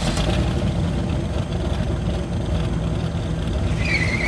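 Car engine running at idle with a steady, pulsing low rumble, just after starting up. About four seconds in, a high wavering tone joins it.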